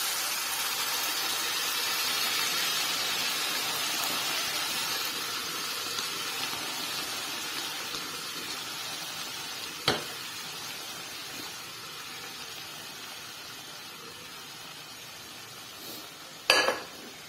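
Hot spiced tadka in a pan sizzling as boiled legumes and their cooking liquid are poured in; the sizzle is strongest at first and slowly dies down. A sharp knock comes about ten seconds in, and a louder one near the end.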